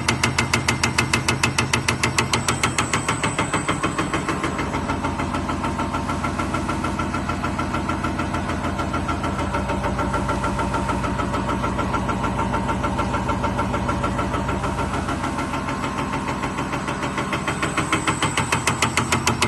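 Common rail injector test bench running: a steady mechanical hum with a rapid, even ticking of about five pulses a second, slightly softer through the middle and stronger again near the end.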